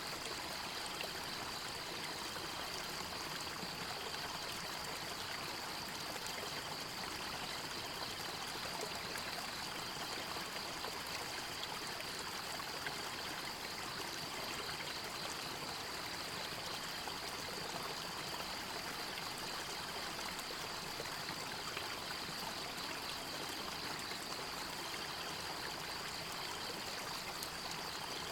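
River or stream water flowing and splashing steadily. Over it sits a steady, high-pitched, fast-pulsing trill.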